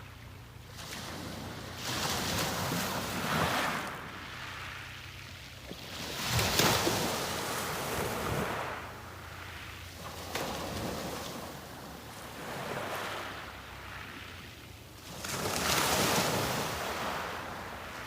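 Sea waves breaking on a beach and washing up the shore, one surge every three to four seconds; the loudest break comes about six and a half seconds in, and another near the end.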